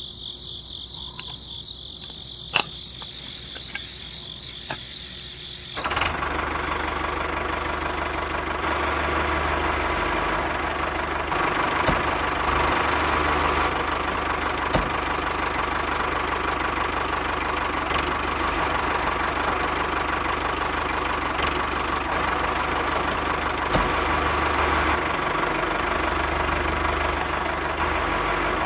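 Steady engine-like machine noise, which starts abruptly about six seconds in and keeps running evenly. Before that there is a quieter steady high whine with one click.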